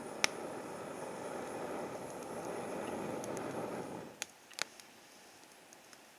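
Wood fire crackling with scattered sharp pops, over a steady rushing noise that stops abruptly about four seconds in.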